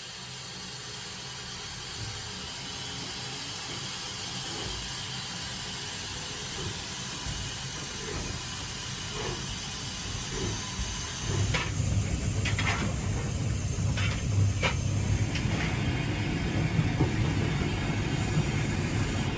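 Steady steam hiss from a Bulleid Pacific steam locomotive, heard on the footplate over a low rumble. About two-thirds of the way through the rumble grows louder, and a handful of brief sharp high sounds cut in.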